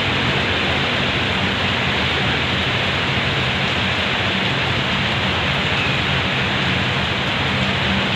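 Heavy rain pouring steadily, a dense even hiss, with a faint low steady hum underneath.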